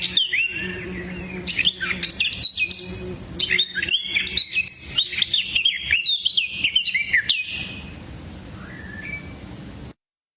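Songbirds chirping and twittering in quick, overlapping calls, thinning out to a few faint calls after about seven and a half seconds, over a steady low hum. The sound cuts off suddenly near the end.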